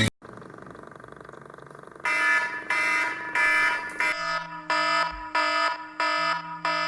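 Alarm clock beeping in a repeating pattern, starting about two seconds in after a faint hum and turning to quicker beeps, about two to three a second, about four seconds in.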